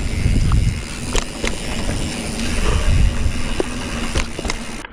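Mountain bike rolling fast over a dirt trail with wind buffeting the microphone, and scattered sharp clicks and rattles from the bike; it drops off sharply just before the end.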